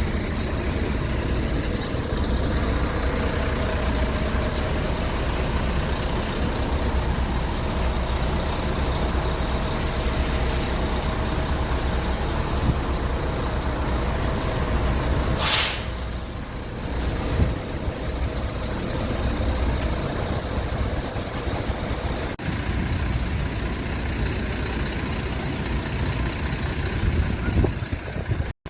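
Scania R tractor unit's diesel engine running steadily, with a short, loud hiss of compressed air from the truck's air system about halfway through.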